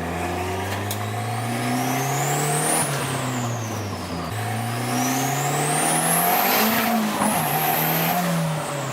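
Car engine revving up under hard acceleration: its pitch climbs, drops back, then climbs again twice more, with a thin high whine rising and falling along with the revs.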